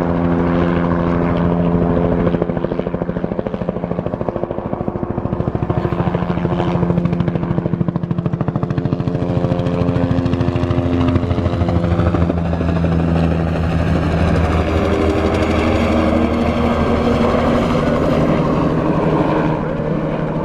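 Helicopter flying overhead: a rapid, continuous chop of rotor blades over a steady engine drone, its pitch shifting slightly about halfway through as it moves.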